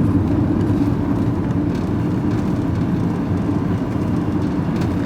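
A van being driven, heard from inside the cab: a steady low drone of engine and road noise.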